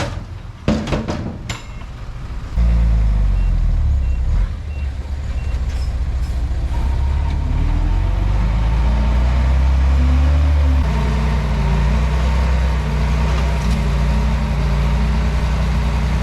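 Komatsu D31P bulldozer's diesel engine working, with a few sharp clanks in the first second and a half. About two and a half seconds in the engine gets suddenly louder and runs on as a steady, heavy low drone, its note shifting a little near the end.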